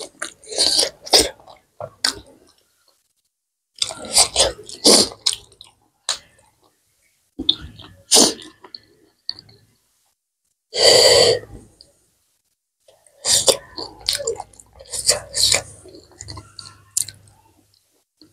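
Close-miked eating sounds of buffalo curry and rice eaten by hand: wet chewing and mouth clicks come in short clusters with silent gaps between them. A loud breathy sound lasting about a second comes about eleven seconds in.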